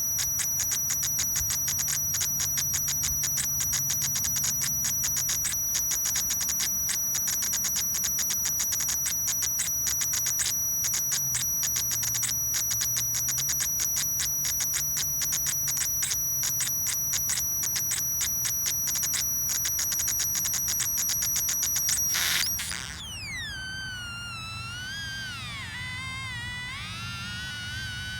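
Solar-powered electronic cicada sounder making a fast, buzzing, pulsed high-pitched tone that imitates a cicada's song. About 22 seconds in it stops abruptly and switches to a warbling tone that slides down in pitch and then back up.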